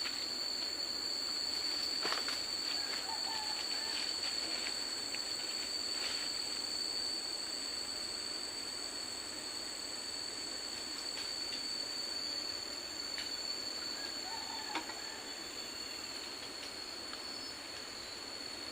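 Tropical forest ambience: a steady high-pitched insect drone at two pitches over a soft even hiss, with a few faint clicks and snaps scattered through it.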